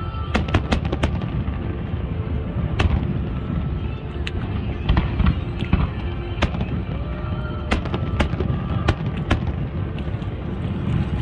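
Aerial fireworks bursting: a series of sharp bangs and crackles in irregular clusters over a steady low rumble.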